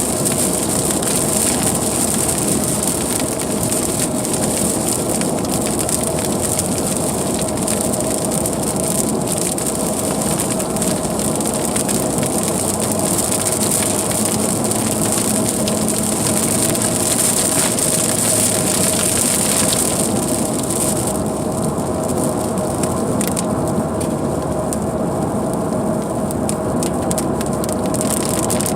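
A car driving through heavy rain: rain hitting the car and tyres hissing on the wet road over a steady hum. The high hiss of the rain thins out for several seconds near the end.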